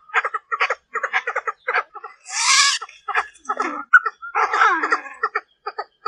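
Female Chinese francolin (đa đa) lure call: a rapid run of short clucking notes, about five a second, broken by a harsher, longer call about two and a half seconds in and a rasping, falling call about four and a half seconds in. This is the female's call used to draw in males.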